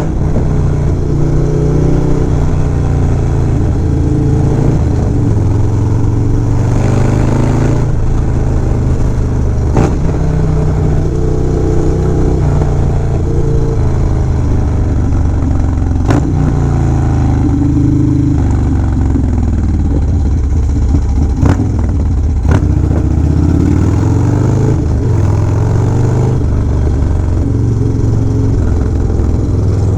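Motorcycle engine and exhaust running at road speed, its pitch rising and falling as the bike speeds up and slows. A few sharp clicks are heard along the way.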